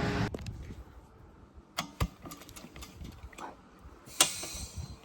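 A running engine cuts off just after the start. Scattered clicks and knocks follow, with one sharp, loud crack and a short ring about four seconds in.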